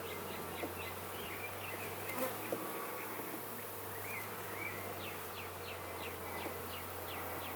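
Honeybees buzzing steadily around an opened hive during a frame inspection, with a few faint clicks of the frames being handled.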